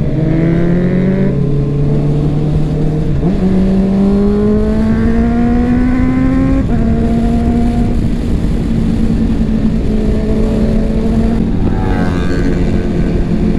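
Honda CBR650R's inline-four engine accelerating with the rider on board, its pitch climbing, a gear change about three seconds in and another near seven seconds, then holding steady at cruising speed. Wind rush runs under the engine throughout.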